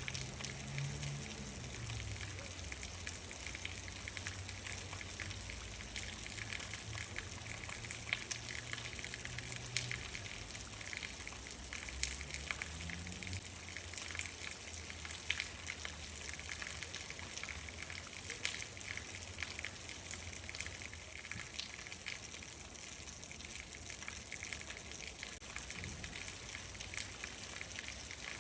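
Steady rain falling, with many individual drops tapping sharply on a hard surface over a soft, even hiss. A low, faint rumble runs underneath.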